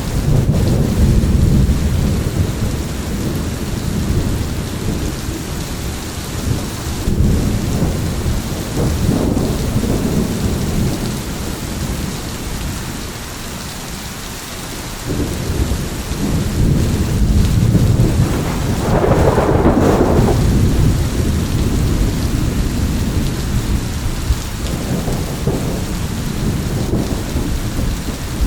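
Steady heavy rain with rolling thunder: deep rumbles swell and fade several times, easing off around 12 to 15 seconds in, then building again with a sharper, brighter peak a few seconds later.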